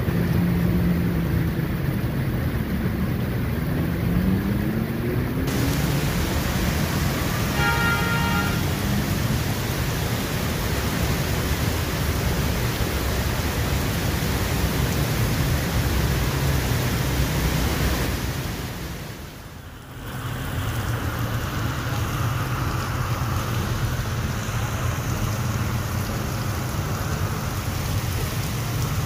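Heavy monsoon rain pouring steadily over slow street traffic, with vehicle engines running underneath. An engine note rises a few seconds in, and a short high tone sounds once around eight seconds. The sound drops away briefly about two-thirds of the way through, then the rain and traffic return.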